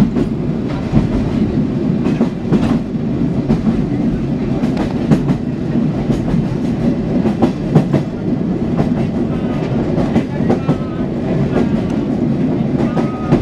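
Sagano–Arashiyama trolley train running through the gorge: a steady rolling rumble with irregular clacks from the wheels over the rail joints.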